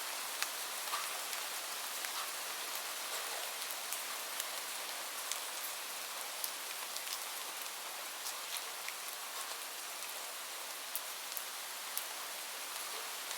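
Gentle rain falling steadily as an even hiss, with scattered sharp crackles from a wood fire.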